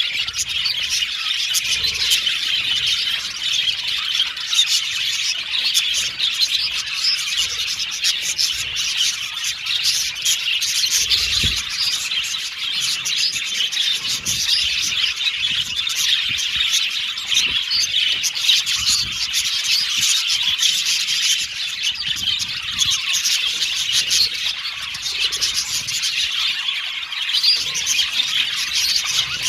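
A flock of budgerigars chirping and chattering nonstop, many birds twittering over one another in a dense, steady chorus.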